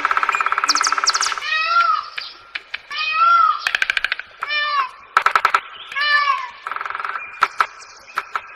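Repeated short animal calls, each rising and falling in pitch and about half a second long. A buzzy trill opens the sequence and comes again near seven seconds, with sharp clicks between the calls.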